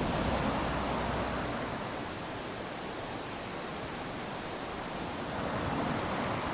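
Small waves washing up onto a sandy beach: a steady hiss of surf that swells at the start and again near the end as each wave runs in.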